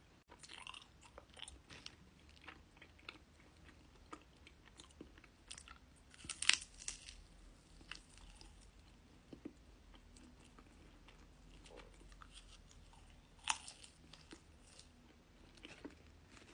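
Close-miked chewing and biting of honey jelly monaka: the crisp rice-wafer shell crunches and cracks between softer chewing. The two loudest crunches come about six and a half and thirteen and a half seconds in.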